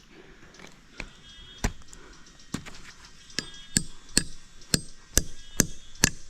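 A series of about ten sharp chopping strikes, sparse at first and then more regular, about two a second.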